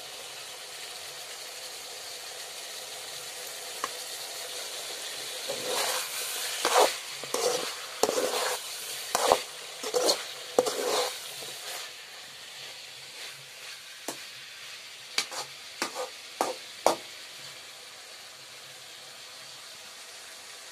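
Potato and cauliflower sizzling in an aluminium karahi during the final dry-frying (bhuna) stage, with a steel ladle stirring and scraping against the pan in a run of strokes from about six to eleven seconds in. Near the middle, a few sharp taps of the ladle on the pan follow.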